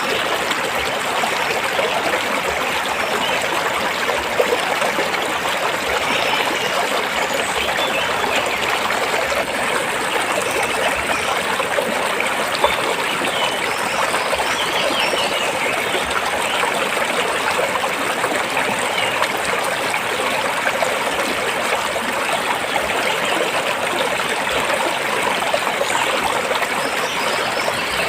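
Stream water flowing and splashing over rocks, a steady babbling rush.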